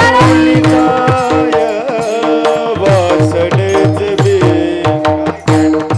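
Marathi kirtan music: a voice sings a bending melodic line over steady held drone tones, with regular tabla strokes whose bass notes glide in pitch.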